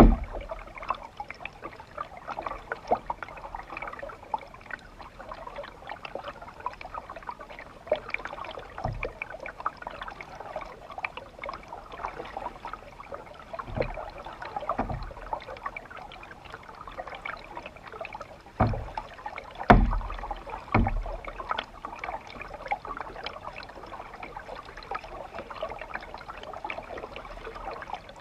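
Water splashing and trickling around a canoe on a river, with a few low thumps, the loudest about two-thirds of the way through.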